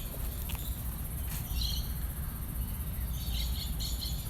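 Birds chirping: short high chirps about a second and a half in and a cluster more around three seconds, over a steady low rumble.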